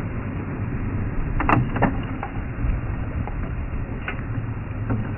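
Safari game-drive vehicle's engine running steadily as it drives, with a few brief knocks and rattles about a second and a half in.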